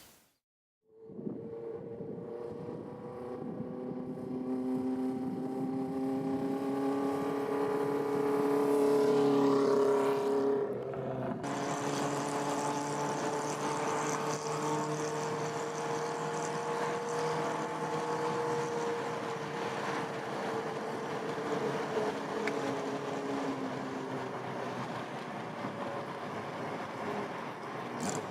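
Honda CB400Four motorcycle's inline four-cylinder engine and exhaust running, growing louder over the first ten seconds. After an abrupt change about eleven seconds in, it runs on steadily with gentle rises and falls in pitch.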